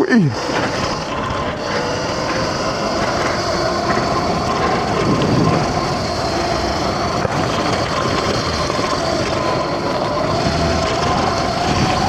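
X-Pro dirt bike engine running steadily while riding a trail, its pitch wavering gently up and down with the throttle, over a steady rushing noise.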